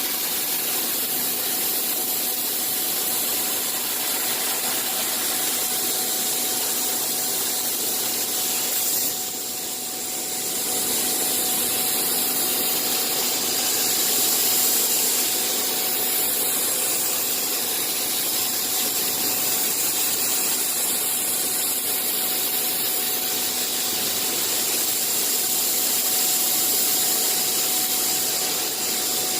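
CNC machine running: a steady hissing machine noise with a faint steady whine, dipping briefly about nine seconds in.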